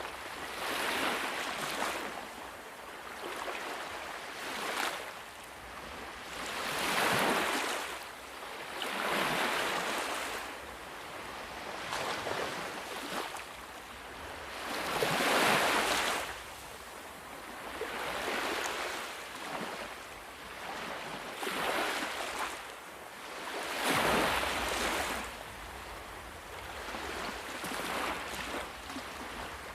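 Sea waves washing in and breaking, the surf noise swelling and falling back in surges every few seconds.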